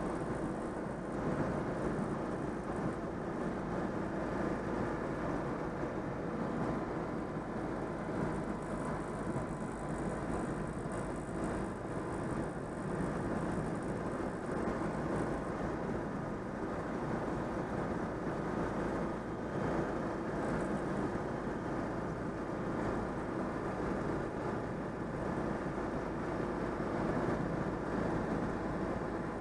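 Citroën 2CV's air-cooled flat-twin engine running with road noise at a steady cruise, the engine freshly overhauled. The level stays even throughout.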